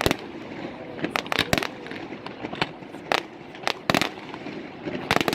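Fireworks exploding overhead: an irregular run of sharp bangs and crackling pops, coming in clusters about a second apart.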